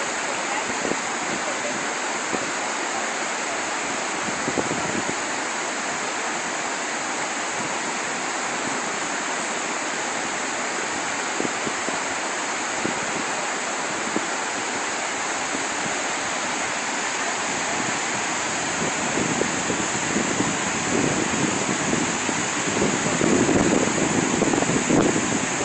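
Steady roar of rushing floodwater pouring out from a burst dam. Toward the end, gusts of wind buffet the microphone.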